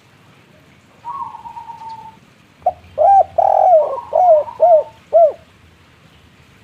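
Spotted dove cooing: a drawn-out higher note about a second in, then a run of about six hollow coos, the last three short and evenly spaced.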